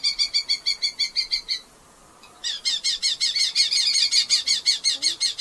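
Red-footed falcon calling in two runs of rapid, shrill repeated notes, about seven a second. The first run stops about a second and a half in, and the second starts a second later.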